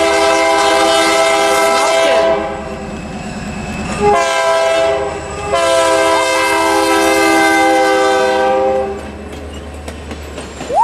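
Great Northern SD45 No. 400's Nathan K3LA air horn sounding three blasts: a long one, a short one about four seconds in, and another long one. The low rumble and wheel clatter of the passing train runs underneath.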